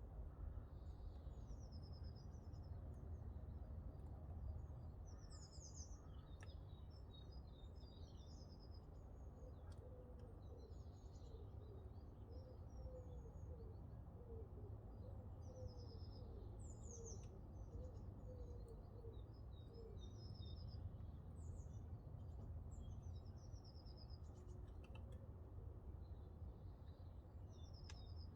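Backyard birds chirping and singing in short high phrases, faint, over a steady low rumble. A run of short lower notes repeats through the middle, and there are a few faint clicks.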